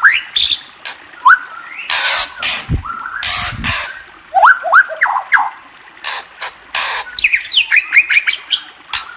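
A murai, a Copsychus songbird, calling in quick groups of short rising whistled notes, broken by loud harsh squawks.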